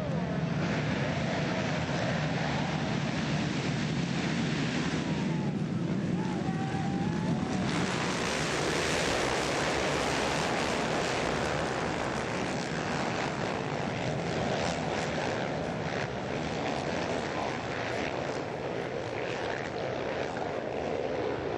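Four-stroke motocross bikes racing, their engines blending into a steady, loud drone.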